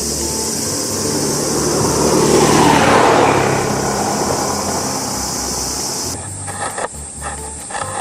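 A road vehicle passing by, its sound swelling to a peak about three seconds in and then fading, over a steady hiss. About six seconds in the sound changes abruptly to scattered clicks and rubbing.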